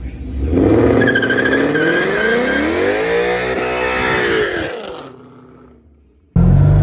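A car doing a burnout: the engine revs up and down with tyre squeal over it for about four seconds, then fades away. Near the end an abrupt cut brings in a loud, low engine rumble.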